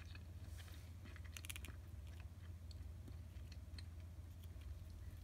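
Faint close-up chewing and mouth sounds of someone eating soft simmered flounder, with scattered small clicks and a short cluster of crisp clicks about a second and a half in, over a low steady hum.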